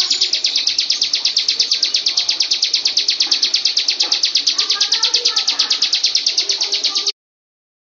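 Bar-winged prinia singing a long, fast, even trill of sharp high notes, about nine a second, which stops abruptly about seven seconds in.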